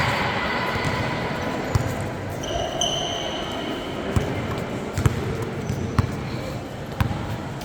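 A basketball bouncing on a gym floor: irregular thuds a second or so apart over a crowd's background chatter, with a brief high squeak about two and a half seconds in.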